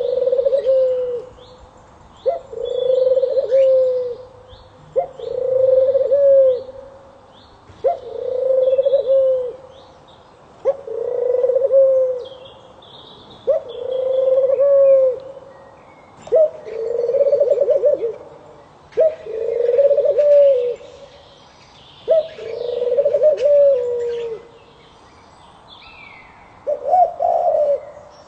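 A dove cooing over and over, about eleven low coos each lasting a second or two and repeating every two to three seconds, with fainter chirps of small birds above.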